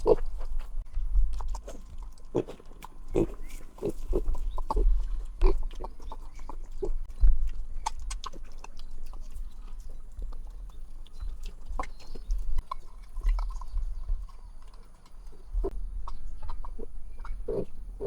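Short animal grunts at irregular intervals, over a steady low rumble.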